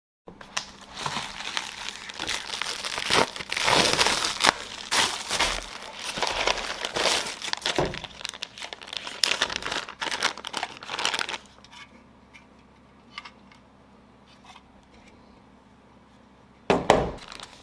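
Packaging being handled: irregular crinkling and tearing for about eleven seconds, then quieter with a few faint clicks, and a brief loud noise near the end.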